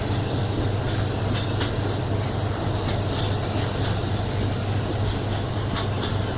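Freight train rolling past: a steady low rumble with scattered sharp clicks of wheels over the rail.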